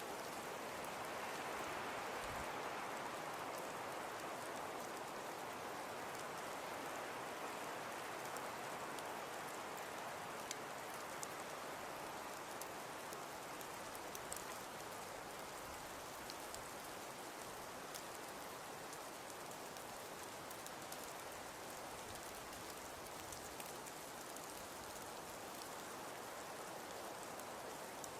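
Wood fire burning in a fireplace: a steady hiss with sparse small crackles and pops.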